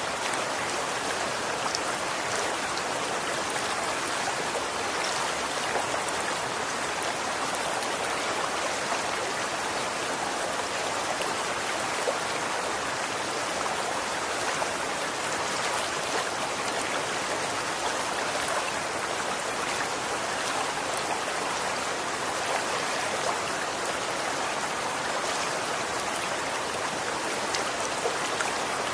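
Running water: a steady, even rush with fine splashing throughout.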